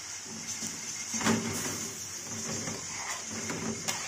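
Mutton pieces sizzling in their gravy in a karahi over a gas flame, a steady hiss, with a spatula knocking against the pan about a second in and again near the end.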